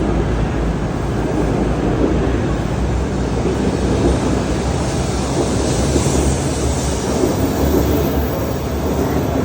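Shinkansen train running, a steady rumble of wheels and motors.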